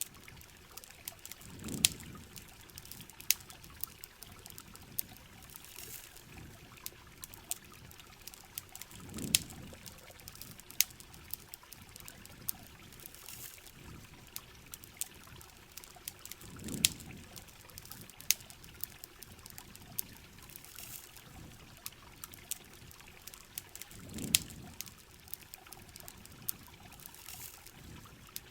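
Heavy rain falling steadily, with a campfire crackling in scattered sharp pops. A soft low swell with a louder pop recurs about every seven and a half seconds.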